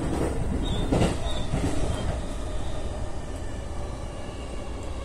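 Keiyo Line electric train running on the rails, heard from inside the driver's cab: a steady rumble of wheels on track, with a couple of short clacks about one and two seconds in. It grows slightly quieter toward the end.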